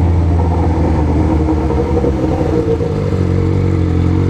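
Yamaha XJ6's inline-four engine running through a straight-piped 4-into-1 exhaust while riding, holding a steady note that dips briefly about three seconds in.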